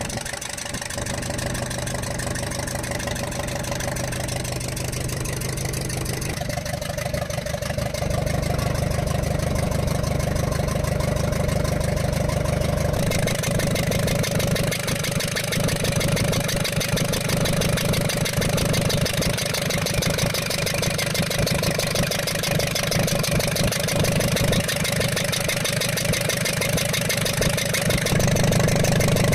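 Ashok Leyland Captain BS4 diesel truck engine running at idle with an abnormal noise, getting a little louder about eight and thirteen seconds in. The noise was traced to a valve bridge that had dropped off the rearmost cylinder's rocker, with raw diesel escaping there.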